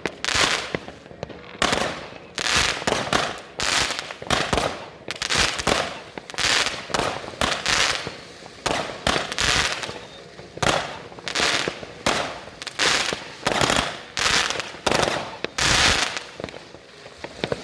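New Year's Eve fireworks and firecrackers going off in a dense, irregular string of sharp bangs, several a second, each with a short echoing tail.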